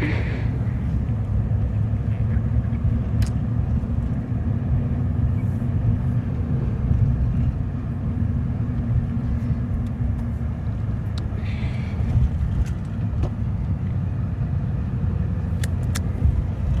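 Steady low rumble of a car driving, heard from inside the cabin: engine and tyre noise on the road, with a few faint clicks.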